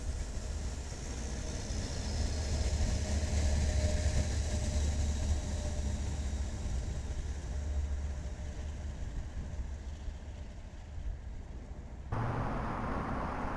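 Low rumble of a passing train of stainless passenger and track-measurement cars, swelling and then slowly fading as the train moves away. About twelve seconds in, the sound cuts abruptly to a different, steady wider noise.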